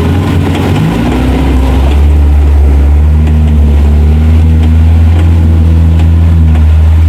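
Off-road 4x4's engine running hard under load. It revs up about a second in and then holds a steady, loud drone.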